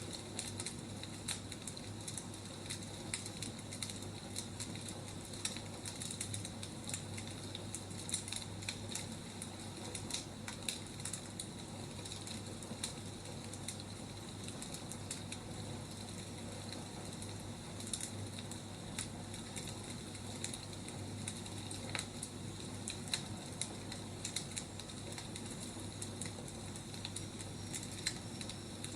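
Burning firewood crackling, with irregular sharp pops and snaps over a steady background hiss.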